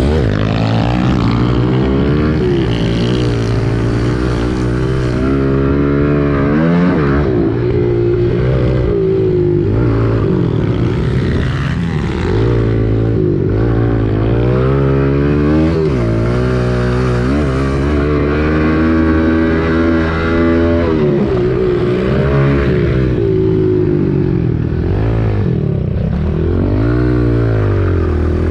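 Kawasaki KLX110 pit bike's small four-stroke single-cylinder engine under way, its pitch climbing and dropping back every few seconds as the throttle opens and closes and it shifts gears.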